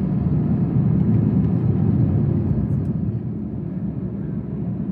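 Airliner cabin noise inside an Airbus A321: a steady, deep rumble of the jet engines and airflow, easing slightly about three seconds in.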